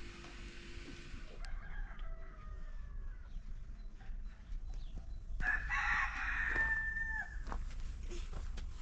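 A rooster crowing: one long, loud crow starting about five and a half seconds in and dropping in pitch at the end, with a fainter crow about two seconds in.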